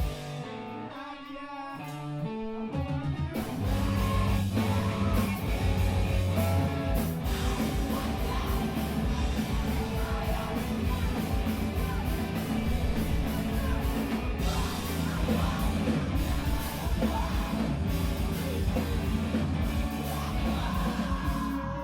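A screamo band playing live, rock guitar alone for the first few seconds, then the full band crashing in with fast drums and yelled vocals.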